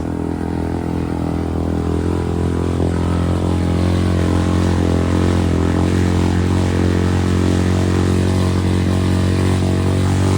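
Quad ATV engine running hard at a steady, held pitch through a mud hole, growing slightly louder about four seconds in.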